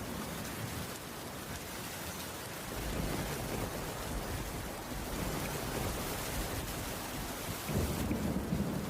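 Heavy rain falling steadily, with a low rumble running underneath from about two and a half seconds in.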